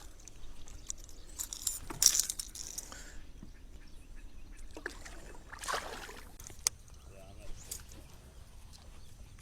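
Short bursts of splashing and handling noise with a few sharp clicks, as a hooked bass is pulled out of the water and handled in a kayak.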